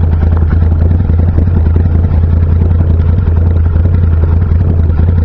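Can-Am Renegade 800 HO ATV's V-twin engine idling steadily through a custom exhaust of equal-length headers, an X-pipe and two GSXR motorcycle mufflers.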